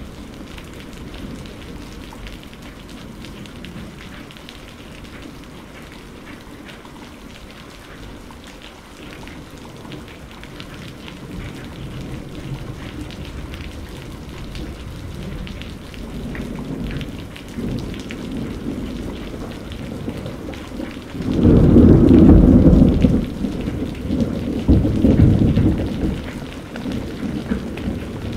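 Steady rain falling, with thunder rumbling in low from about halfway through and a loud, deep thunderclap rumble a little past the two-thirds mark, followed by a second, weaker rumble.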